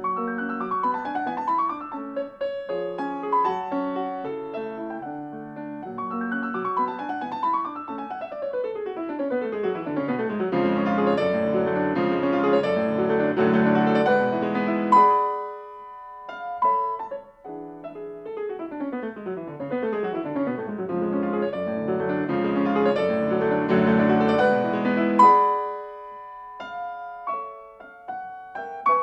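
Classical solo piano music: two fast runs sweep down from the treble into the bass, each building to a loud, full passage that breaks off suddenly, followed by quieter, sparser notes near the end.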